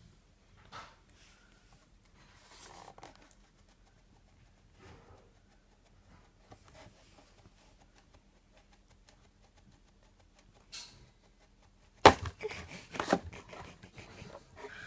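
Cat playing with a homemade toy: faint scattered rustles and taps, then about twelve seconds in a sudden loud clatter of knocks and scuffling.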